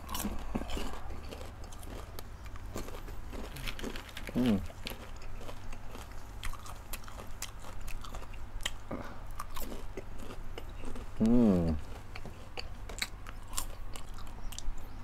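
Close-up crunching and chewing of crisp snacks, caramel-coated popcorn and corn chips, in rapid crackly crunches. Twice a short hummed vocal sound from the eater rises and falls, about four seconds in and again past the eleven-second mark.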